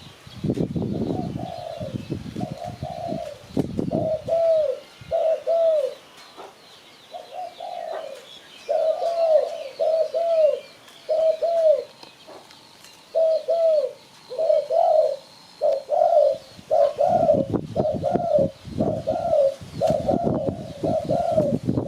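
Spotted dove cooing: a long run of short, arched coo notes in bunched phrases with brief pauses. Faint higher chirps from other birds sit behind it, and a low rumble comes in at the start and again over the last few seconds.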